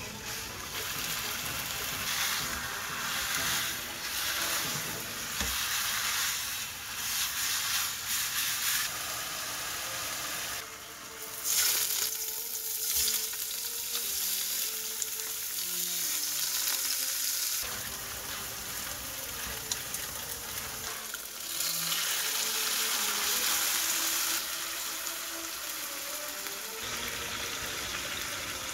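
Beef bulgogi with tofu sizzling as it fries in a pan. The sizzle comes in several stretches that start and stop abruptly, some louder and some softer.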